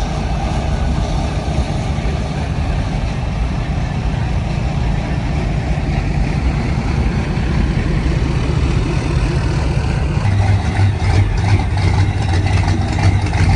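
Truck engine idling with a steady low rumble, which grows louder and deeper about ten seconds in.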